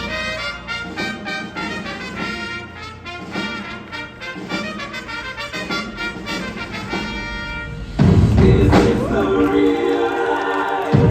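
Indoor winds ensemble playing: brass and winds in a brisk run of short, repeated notes, then about eight seconds in a sudden, much louder full-band entrance with heavy bass.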